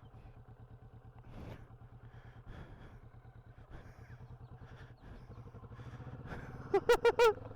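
Kawasaki Vulcan S 650's parallel-twin engine running at idle after the rider has restarted it from a stall, growing slightly louder near the end.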